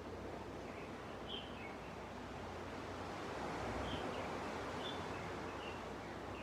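Gentle ocean waves washing onto a beach as a steady rush, with a few short, high bird chirps about a second in and again between four and six seconds in.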